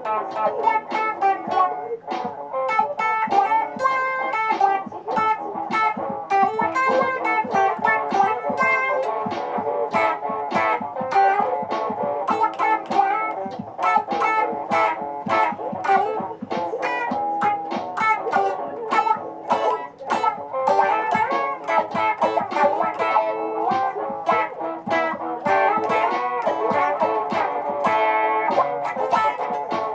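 Electric guitar playing layered looped parts: several picked lines over one another with a constant run of short plucked notes.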